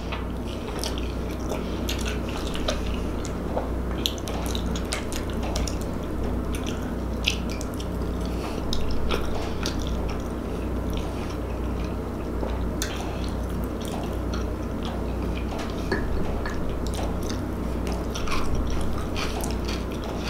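Close-up chewing of a piece of saucy boneless rib with the mouth closed: a steady run of small wet smacks and clicks over a low steady hum.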